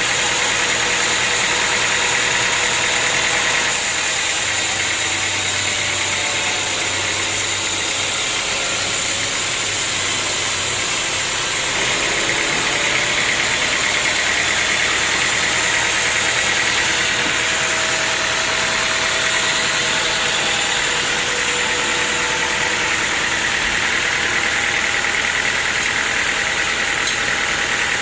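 Sawmill machinery running steadily, a continuous loud mechanical noise with no pauses.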